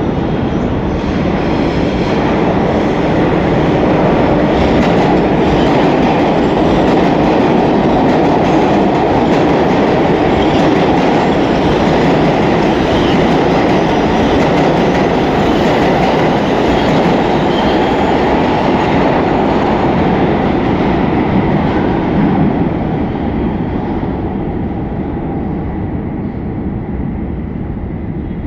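New York City subway train running through a station without stopping, a steady loud rumble with wheels clacking over the rail joints and faint squeals. It fades out as the train leaves, starting about three-quarters of the way through.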